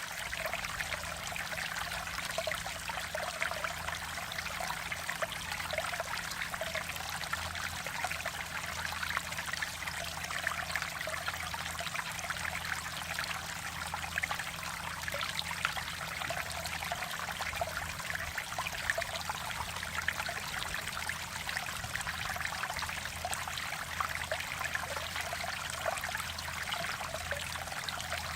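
Mountain valley stream flowing steadily: a continuous rush of running water with constant fine flicker and no breaks.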